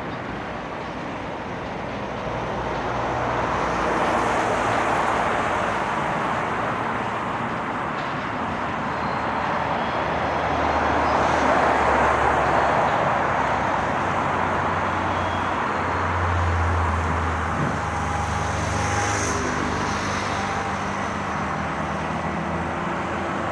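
Steady rumble of passing vehicles that swells and eases, with a deep engine hum coming in about two-thirds of the way through and a brief high squeal soon after.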